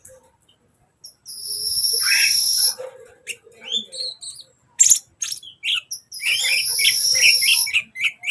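Kolibri ninja sunbird singing: two long, high, buzzing trills, about a second and a half each, with quick sharp chirps between them.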